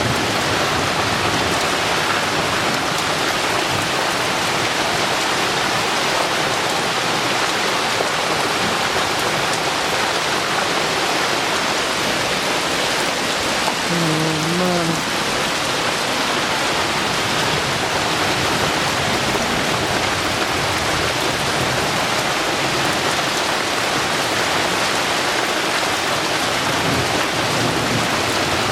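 Heavy tropical rain pouring down steadily at a constant level. A brief pitched call cuts through the rain about halfway through.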